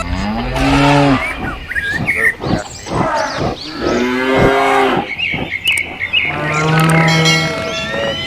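Cattle mooing: several calls one after another, some bending up and down in pitch, with one long, low, steady moo about six seconds in.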